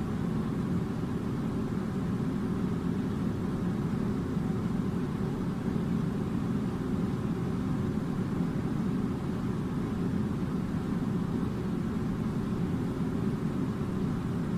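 Air conditioner running: a steady low rush of air that holds an even level throughout.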